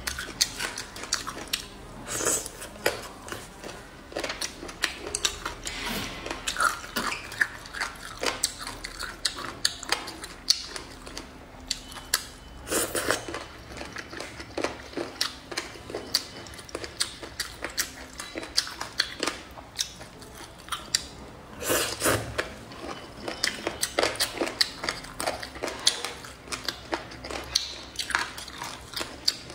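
Close-miked chewing and biting of deboned chicken feet with the tendons left in: a steady run of small wet, crunchy clicks, with a few louder crunches along the way.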